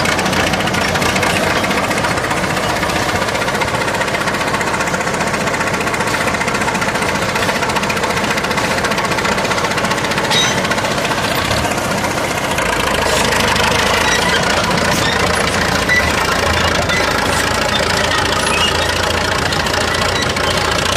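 Stalinec T100 crawler tractor's diesel engine running steadily, growing somewhat louder and deeper about two-thirds of the way through.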